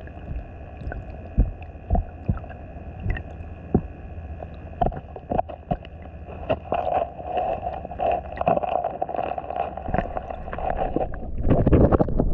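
Underwater sound of flowing canal water with scattered clicks and knocks, over a steady motor-like whine from the camera, which has been submerged for a long time. The whine stops near the end as the water noise grows louder.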